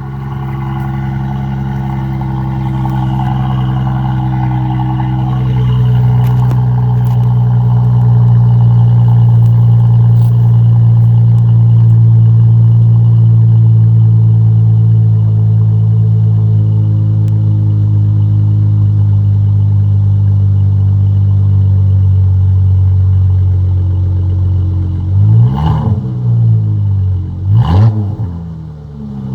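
2014 Dodge Charger SXT's 3.6-litre V6 running through a Pypes cat-back exhaust, holding a steady engine note that grows louder about six seconds in. Near the end the throttle is blipped twice in quick revs that rise and fall sharply.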